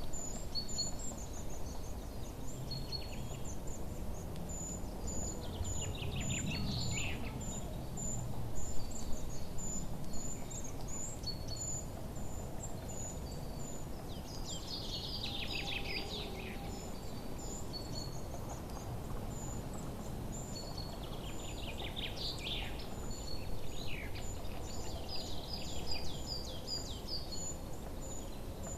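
Songbirds chirping: a steady run of short high chirps about twice a second, with falling trilled songs breaking in several times, about a quarter of the way through, near the middle and twice more later on. A low steady background rush runs underneath.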